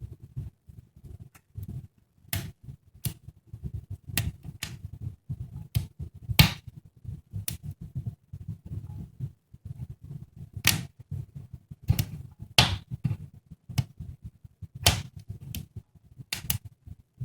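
Wood fire crackling in a brick fireplace: irregular sharp pops, some loud and some faint, over a low rumble of the burning fire.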